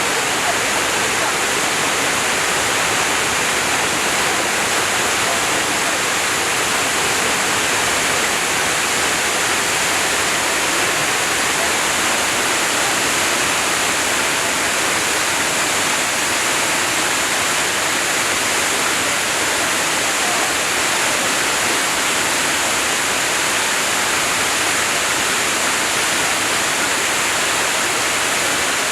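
Waterfall of many thin streams of water pouring over a wide cliff into a river, a steady, unbroken rush.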